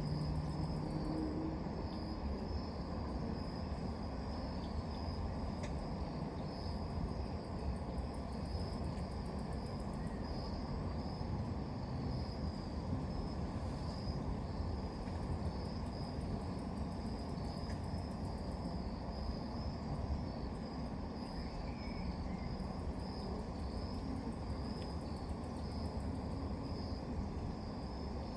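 Crickets chirping steadily in a high pulsing band over a steady low background rumble.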